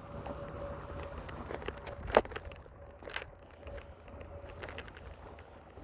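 Bicycle riding noise: a low rumble with scattered clicks and knocks, a sharp knock about two seconds in and another about a second later, over a faint steady hum.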